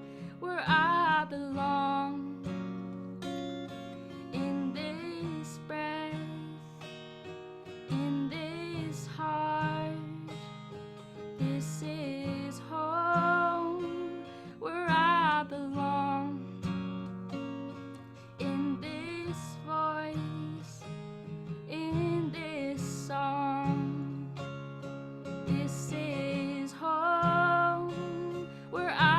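A song with strummed acoustic guitar chords under a sung melody with vibrato, in phrases a few seconds long.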